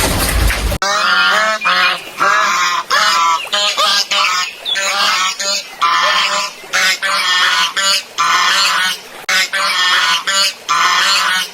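A goose honking again and again, with some calls coming in quick runs. Before it, a brief rushing noise cuts off sharply less than a second in.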